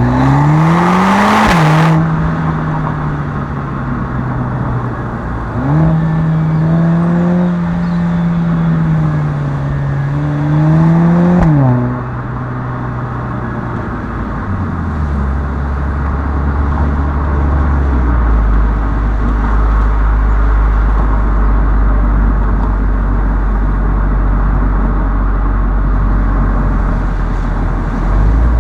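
Mercedes-AMG A45 S turbocharged four-cylinder engine and exhaust under acceleration: revs rise in the first second and a half with a loud rushing burst about a second in, then a steady run. Revs climb again about 6 s in and fall away near 12 s, and the second half is a low steady drone at low revs.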